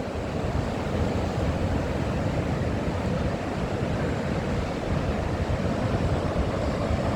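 Ocean surf washing steadily, mixed with a breeze rumbling on the phone's microphone.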